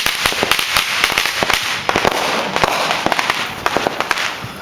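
Fireworks and firecrackers going off in rapid, dense succession, a crackling barrage of sharp pops much like automatic gunfire, easing off near the end.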